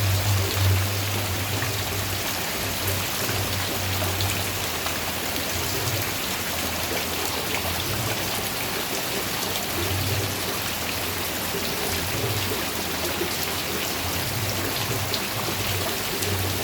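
Steady rain falling, an even hiss of many drops, with a low hum that swells and fades at times.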